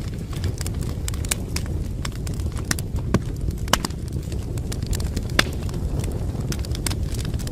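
Wood fire crackling in a fireplace: a steady low rumble of burning with frequent sharp snaps and pops, a few louder pops a little past three seconds, near four seconds and about five and a half seconds in.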